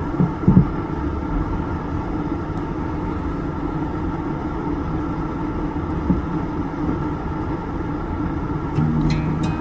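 Steady road and engine rumble of a car, as heard from inside it while driving, with a couple of brief thumps about half a second in. Guitar music comes in near the end.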